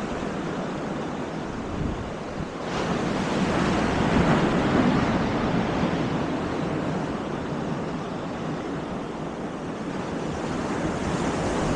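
Baltic Sea surf washing onto the beach in a steady rush, swelling louder about three seconds in, with wind buffeting the microphone.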